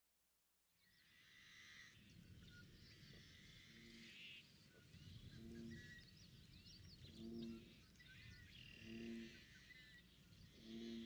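Faint wetland ambience: birds chirping and twittering, and from about four seconds in a low two-toned frog croak repeating about every second and a half.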